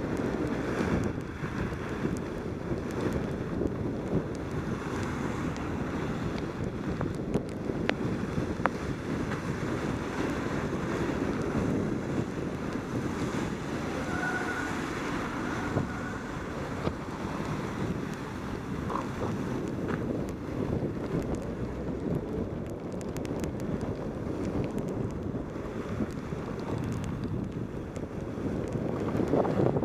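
Steady wind rush on a helmet-mounted camera's microphone during a mountain-bike descent in pouring rain, with scattered small clicks.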